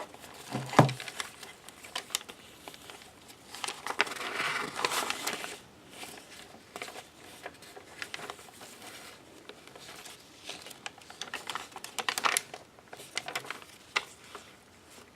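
Paper pages and tags of a handmade junk journal being turned and handled: intermittent rustling of paper and card, with a few sharp taps, the longest rustle about four seconds in.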